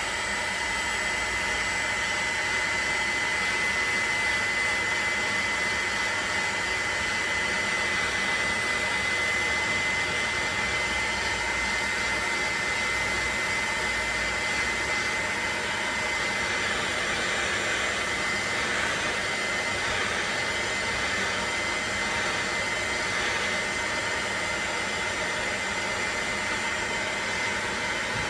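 Electric heat gun running steadily: a continuous rush of blown air with a steady high whine, heating the Mini's suspension trumpet to loosen the seized rubber cone from it.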